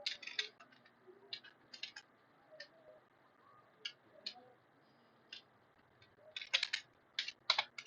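Clicks of a computer keyboard and mouse: scattered single taps, then a quicker run of keystrokes near the end.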